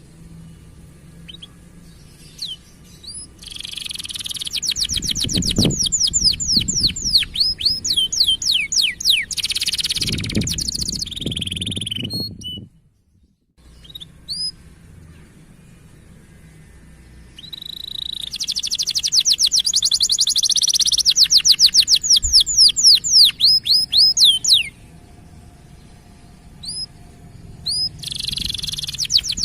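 Canary singing: long phrases of rapid trills built from quick falling chirps. The song comes in two long bursts with scattered single chirps between them, and a third phrase starts near the end.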